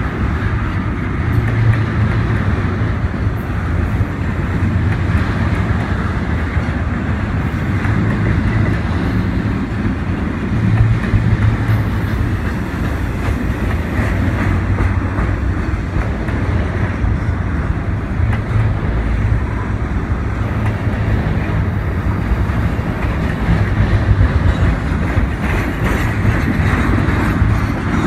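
A train rolling past, making a loud, steady rumble of wheels on rails that holds without a break, with faint clicks of wheels over the rail joints.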